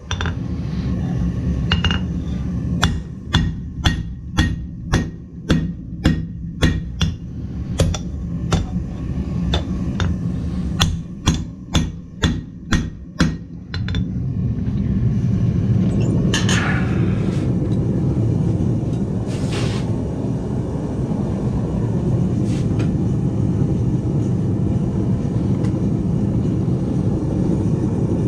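Blacksmith's hammer striking metal on an anvil in a run of blows, about two a second, stopping about halfway through. A steady low rumble runs underneath and carries on alone after the hammering stops.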